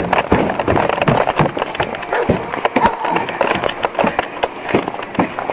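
Irregular knocks and thumps of footsteps and climbing on wooden boards.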